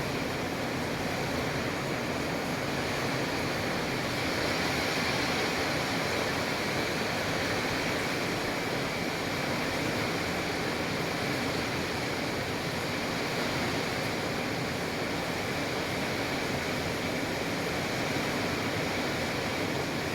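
Heavy rain falling in strong wind, a steady, even rush of noise.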